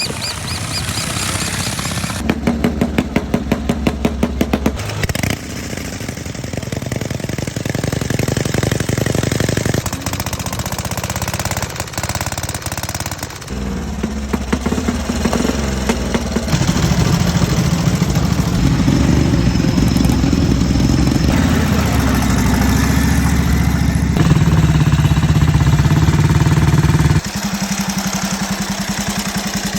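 Engines of vintage motorcycles running, in a string of short clips whose engine note changes abruptly at each cut. Some are clear, rapid firing beats, and a steady even beat comes near the end.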